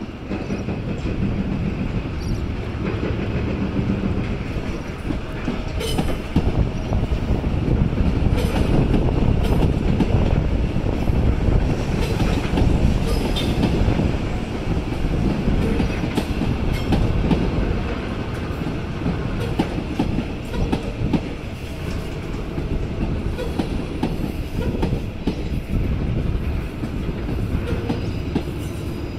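Train running along the tracks, a heavy rumble with wheels clacking over rail joints and some thin wheel squeal. It is loudest in the middle.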